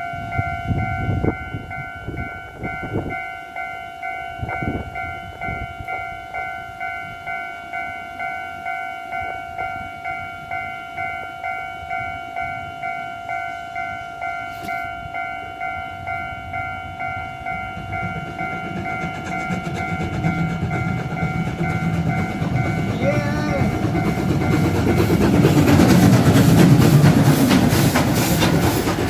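Level-crossing alarm bell ringing in an even rhythm while the DT668 steam locomotive and its train approach. The rumble and wheel clatter grow steadily and are loudest near the end, as the locomotive crosses.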